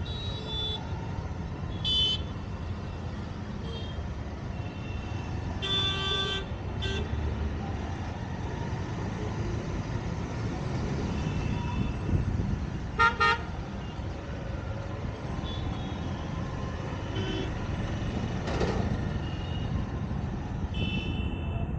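City road traffic: a steady rumble of engines and road noise, with vehicle horns honking several times, a short one about two seconds in, a longer one around six seconds, two quick toots around thirteen seconds and another near the end.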